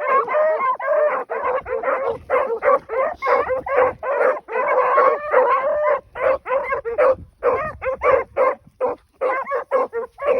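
Pack of rabbit hounds baying together on a rabbit's track, several voices overlapping in a thick chorus that breaks into more separate barks over the last few seconds.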